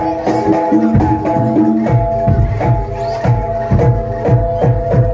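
Live jaranan gamelan music: hand-drum strokes and low drum hits in a steady rhythm over struck bronze pitched percussion ringing out in a repeating melodic pattern.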